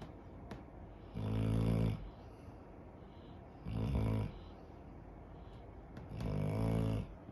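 Labrador retriever snoring in deep sleep: three loud, low snores about two and a half seconds apart, each lasting under a second.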